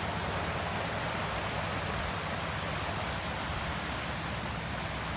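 Steady rush of a flood-swollen creek running high and fast after days of heavy rain.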